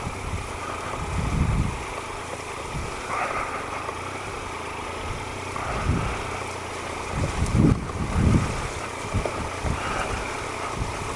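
Triumph Explorer XCa's 1215 cc three-cylinder engine running at low revs while the bike is ridden slowly through mud, with wind buffeting the microphone in gusts, the strongest gusts near the end.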